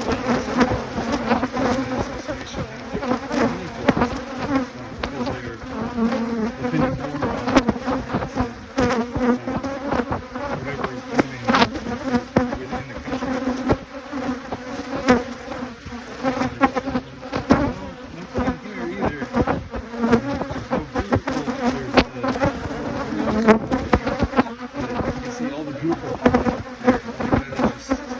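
Honeybees buzzing in a dense, close hum from an opened hive; the pitch wavers as many bees fly around. Frequent small clicks and taps run through it.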